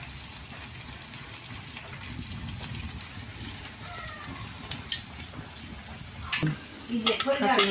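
Ground onion, ginger and garlic masala frying in oil in a kadai over a wood fire, a steady low sizzle.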